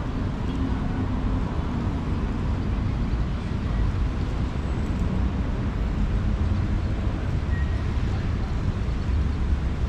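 Steady low engine rumble under a haze of city background noise.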